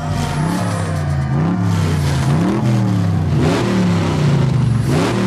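Car engine revved again and again at a standstill, its pitch climbing and dropping back several times.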